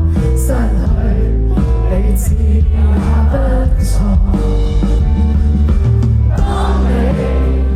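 Live band music played loud through a concert PA: a singer over heavy bass and drums, with a cymbal crash every couple of seconds.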